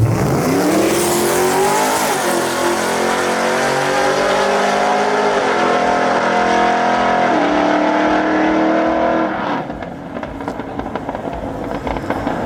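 A drag-racing truck's engine launching and accelerating hard. Its pitch climbs and drops back at three upshifts, about two, five and seven seconds in. It then fades quickly near the end as it pulls away down the track.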